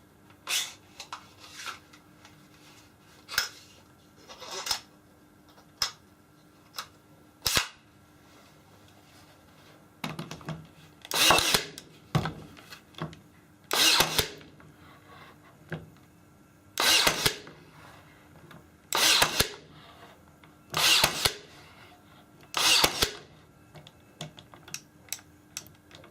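A few sharp clicks, then a power tool running in short bursts of about half a second to a second, one every two to three seconds.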